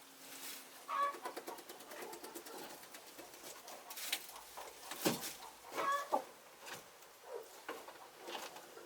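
Domestic chickens clucking softly, with a few short calls, the loudest about five and six seconds in, among scattered small clicks.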